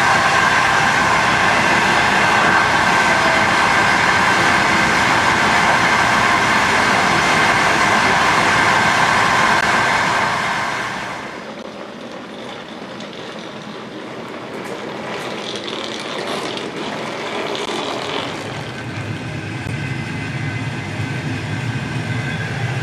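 Passenger train running on the track, heard from aboard: loud wheel and rail noise with a steady whine, which drops away suddenly about halfway through, leaving a quieter rumble that builds again near the end.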